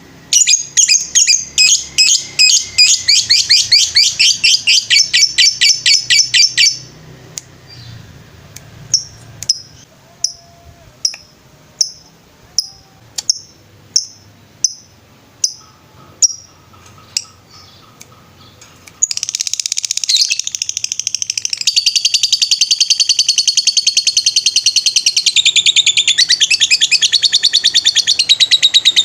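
Lovebird singing. First comes a fast run of repeated high chirps, then a slower string of single chirps about one to two a second. About two-thirds of the way in, a long, unbroken rapid trill begins: the 'ngetrek' song.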